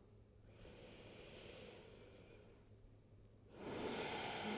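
A person breathing slowly and audibly during yoga practice: a soft breath, then a louder, longer breath out like a sigh starting about three and a half seconds in.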